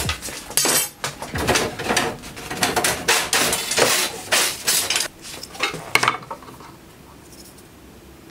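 Steel tubing and bar stock clanking and clinking against each other as a length of steel is pulled out of a crowded storage rack: many quick, irregular metal-on-metal knocks that die away about six seconds in.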